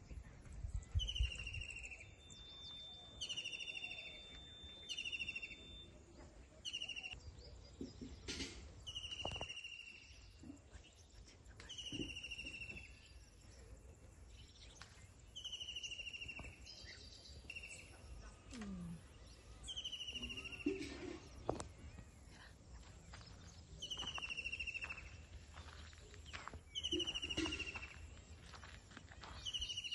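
A bird calling over and over, each call a short note sliding downward, repeated every second or two, with a few soft knocks in between.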